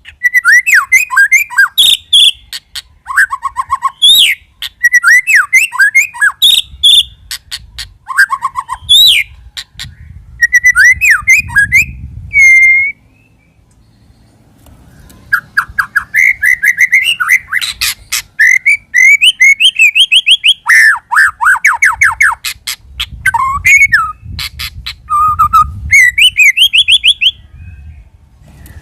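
White-rumped shama song: loud, fast runs of varied whistled phrases, rising and falling trills and harsh rasping notes, with a break of about two seconds about halfway through.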